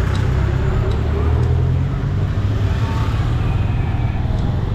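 Motorcycle riding through road traffic: a steady low rumble of engine and wind, with a few faint short tones about three seconds in.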